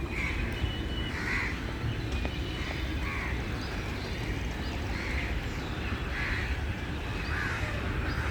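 Birds calling over and over, short calls roughly a second apart, over a low steady rumble.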